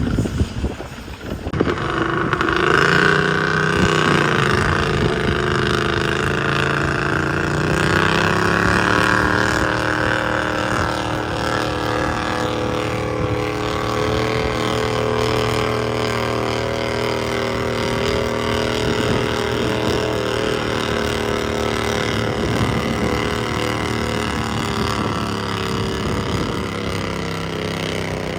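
Garden pulling tractor's engine revving up about two seconds in, then running hard and steady at high revs, typical of a tractor pulling the sled.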